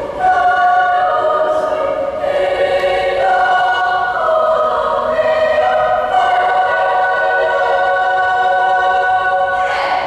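Choir singing long held chords that stop together near the end, the close of a piece.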